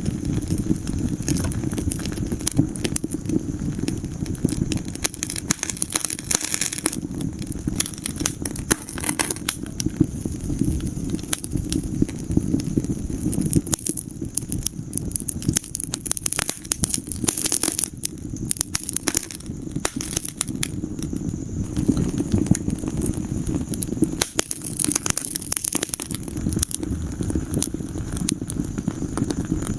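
Wood fire burning in a fireplace, with dense irregular crackles and pops over a steady low rumble of the flames.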